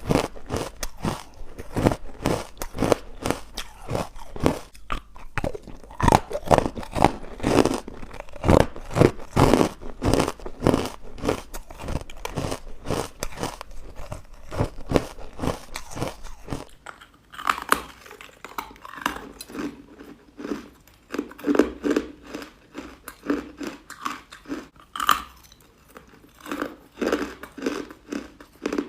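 Crunching and chewing of chalky, powdery, carbonated white ice bites: a fast, dense run of crunches that thins out to slower, softer chews about 17 seconds in.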